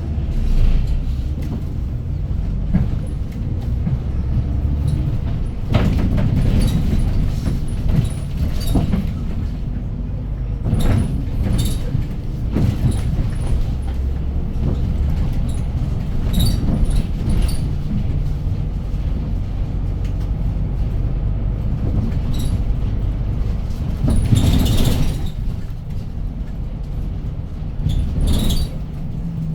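City bus driving, heard from inside the passenger cabin: a steady low engine and road rumble with scattered rattles and clicks, and a brief hiss about three-quarters of the way through.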